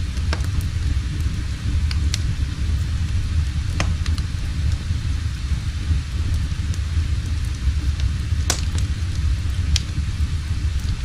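Wood fire burning in a fireplace: a steady low rumble with a few sharp crackles at irregular intervals.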